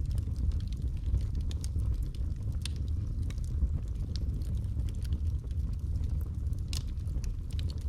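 Wood fire burning in a fireplace: a steady low rumble of flames with scattered sharp crackles and pops, a few louder ones standing out.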